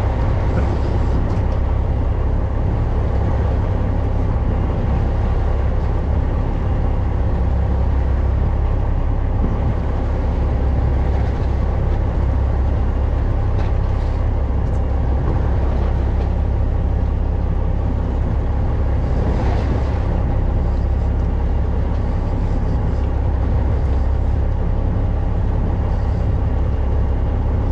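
Fishing boat's engine running steadily, a constant low drone with a hum underneath.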